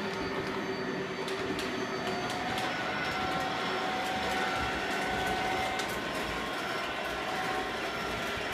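Lionel O-gauge command-control toy locomotive running fast on tubular O-27 track: a steady motor whir and wheel rumble, with light clicks as the wheels cross the track joints.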